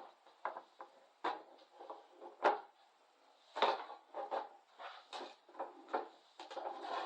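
Irregular knocks, clunks and rustling of objects being handled, about a dozen short sounds, with the loudest about two and a half and three and a half seconds in.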